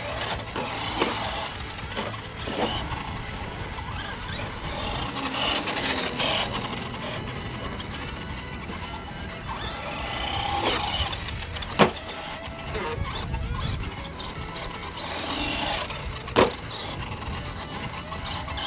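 A 1/10-scale RC monster truck's electric motor whining up and down in pitch as the throttle is worked, with four sharp knocks of the truck landing or hitting hard ground, the loudest two about midway and near the end. Music plays underneath.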